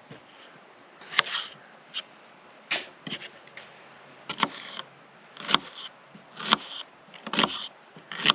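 Paring knife chopping onion on a small cutting board: about nine separate sharp knocks, roughly one a second and unevenly spaced.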